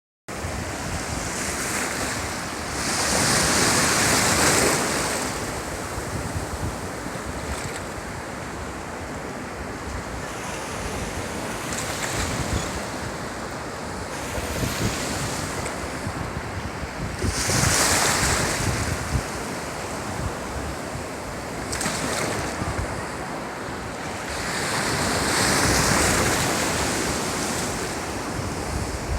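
Ocean waves breaking and washing up a beach in a continuous rush, with three louder surges as bigger waves come in, and wind buffeting the microphone.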